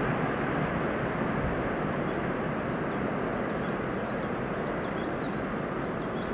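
Freight train rolling past on the rails: a steady rumble that slowly fades. Over it, a small songbird gives rapid short chirps, starting about a second and a half in.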